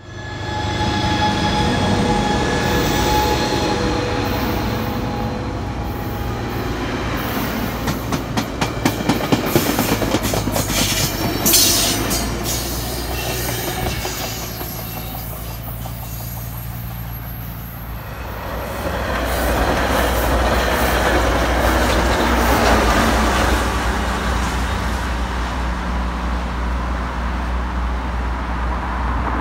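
Coaster commuter trains on the move: a steady locomotive sound at first, then a run of regular clicks from wheels crossing rail joints. A loud, deep rumble of a train going by fills the last third.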